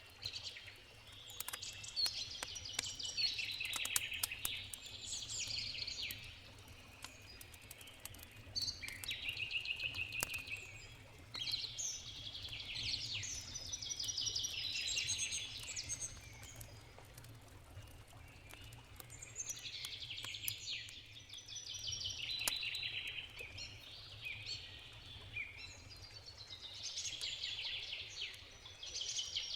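Songbirds singing in short, rapid trilled phrases, one after another every few seconds. Behind them, a wood campfire pops and crackles, most often in the first third, over a low steady rush of river water.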